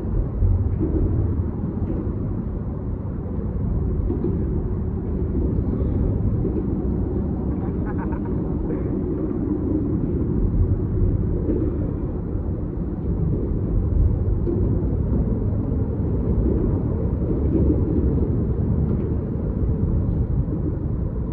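Steady low rumble of wind on the microphone, swelling and easing slightly, with no distinct events.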